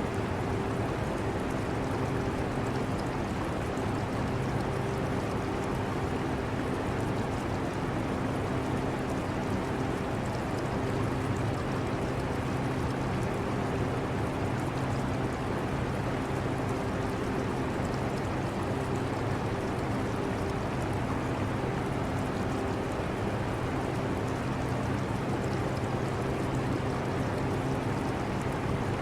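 Portable air conditioner running with a steady rushing noise and a low hum, mixed with the trickle of aquarium water.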